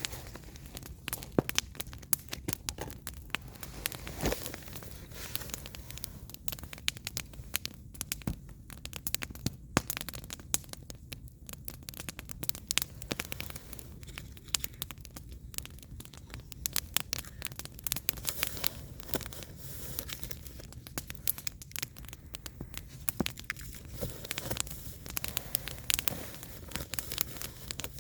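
Firewood burning in an open fire, crackling with many irregular, sharp snaps and pops over a steady low background.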